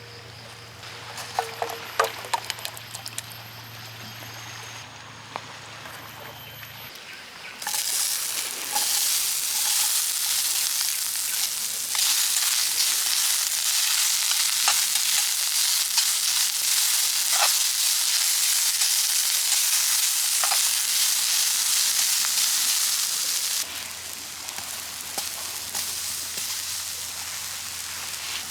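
Food frying in hot oil in a pan: a few clinks of utensils, then a loud, steady sizzle starting about eight seconds in that eases off near the end.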